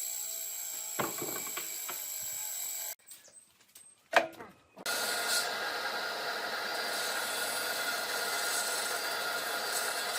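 Woodworking sounds in cut-together segments: a few knocks on wood over a steady hum, a sharp knock about four seconds in after a short near-silence, then a steady running power tool on wood from about five seconds on.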